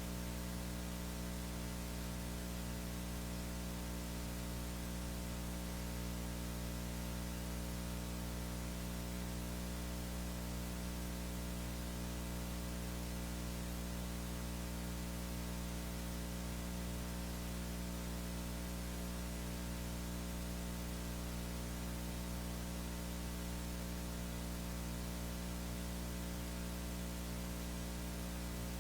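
Steady electrical mains hum with hiss, unchanging throughout, with no music or voice over it.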